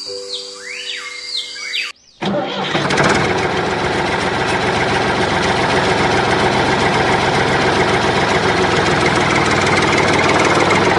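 Music with held tones and sliding notes, cut off about two seconds in by a loud, steady engine or motor running to the end.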